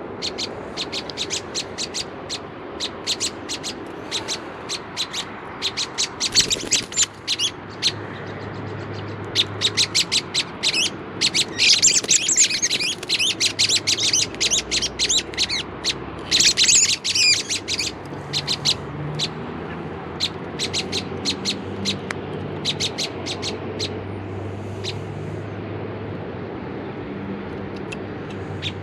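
American robin giving rapid, sharp alarm calls, several a second, with louder bursts of harsher squawking three times in the first two-thirds: a bird flipping out in alarm as its tangled companion is handled.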